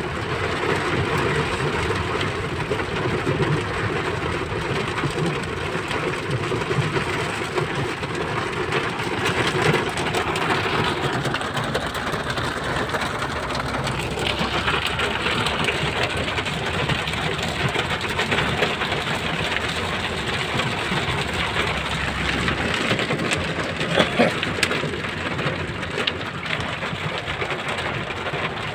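Heavy rain pattering steadily on a surface, with a low vehicle rumble underneath that falls away about three-quarters of the way through.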